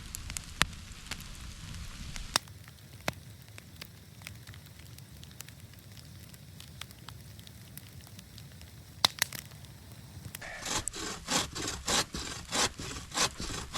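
Hand saw cutting through wood in quick, even strokes, about three a second, starting near the end. Before that, scattered sharp ticks of freezing rain over a faint hiss.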